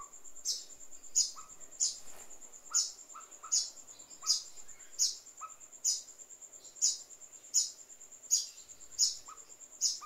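A young bird's begging calls: a sharp, high chirp repeated about every three-quarters of a second, over a steady high-pitched whine.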